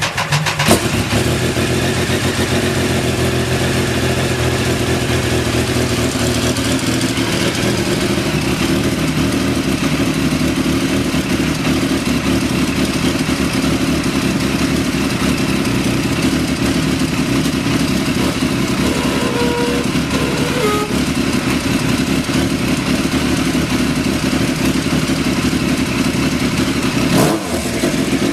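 Triumph motorcycle engine just fired up and settling into a steady, even idle. Near the end there is a brief dip and change in its note.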